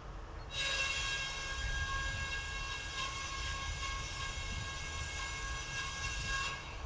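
Train horn sounding one long, steady note for about six seconds, starting and cutting off abruptly.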